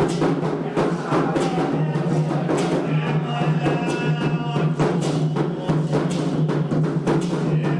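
Candomblé ritual music: atabaque hand drums beating a fast, steady rhythm, with voices singing a chant over them from a few seconds in.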